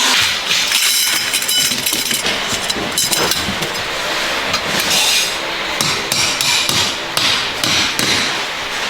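Metal being struck repeatedly with a hammer: many quick, irregular blows with a continuous clatter.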